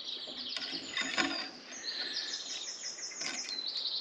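A songbird singing: rapid runs of short, high chirping notes, each falling in pitch. There is a single light knock about a second in.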